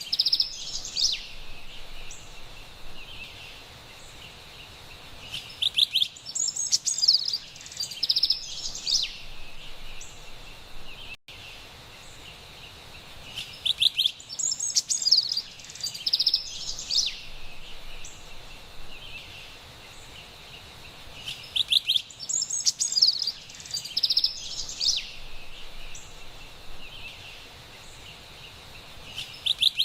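Carolina wren singing, loud bursts of song about every eight seconds, over a steady high hiss of forest background.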